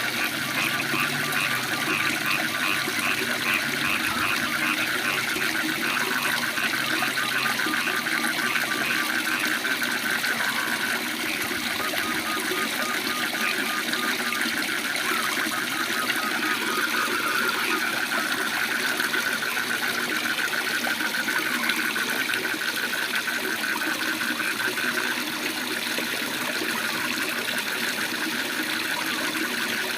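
Waterfall rushing steadily, with frogs calling over it in rapid pulsed trills that come and go.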